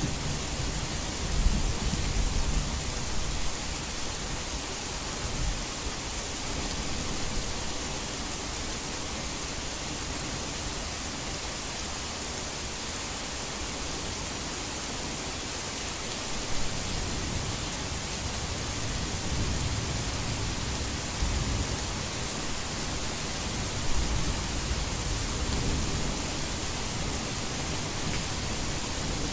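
Heavy rain falling steadily, with low rumbling thunder at the start and twice more after the middle.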